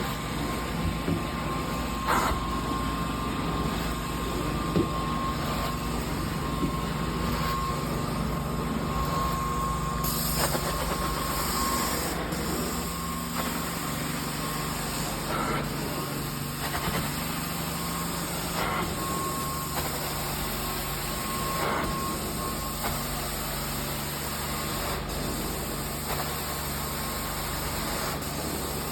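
Carpet-cleaning extraction machine running steadily: a constant engine-like hum with a thin whine above it and a few faint knocks.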